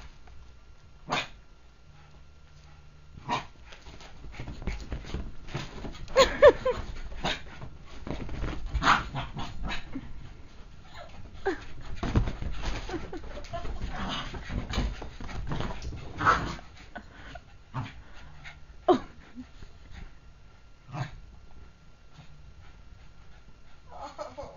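A dog yelping and barking now and then amid scuffling and thumping, busiest in the middle, with scattered sharp knocks.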